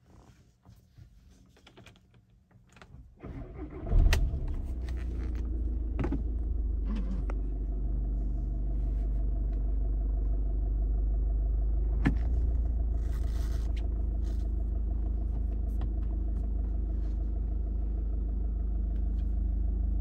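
2015 Volkswagen Golf TDI's 2.0-litre four-cylinder turbo-diesel engine starting, heard from inside the cabin: the starter cranks about three seconds in, the engine catches with a brief loud flare of revs about four seconds in, then settles into a steady low idle. A few sharp clicks sound over the idle.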